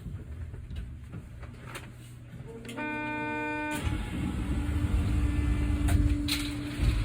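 Onboard running sound of an Osaka Metro New Tram, the rubber-tyred automated people mover, a steady low rumble. About three seconds in, a short buzzer-like tone sounds for about a second. A steady tone then holds while the rumble grows louder.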